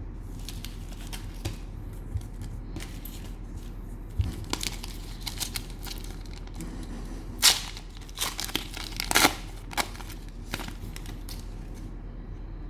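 Cellophane wrapper of a trading-card pack being torn open and crinkled: a run of short rips and rustles, with the two loudest rips a little past halfway.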